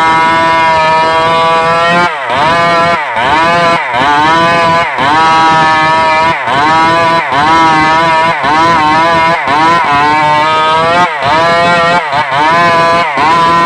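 Stihl MS 381 two-stroke chainsaw running at high revs, its pitch dropping briefly and recovering about once a second.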